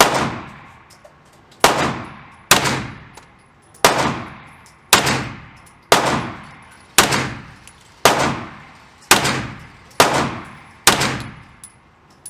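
A firearm fired in a steady string of eleven single shots, about one a second, each shot loud and sharp with a short echoing tail.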